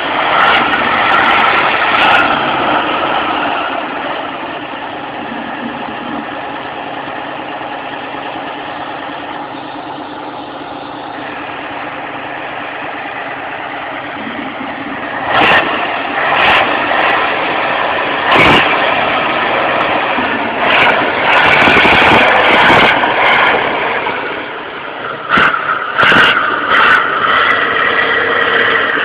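Tractor engine running under load, its pitch and loudness rising and falling as it is worked to pull free of a river, with several sharp knocks in the second half.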